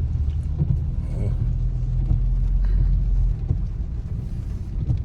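Low, steady rumble of a car's engine and tyres heard from inside the cabin while driving, a little louder in the first three seconds, with a few faint ticks.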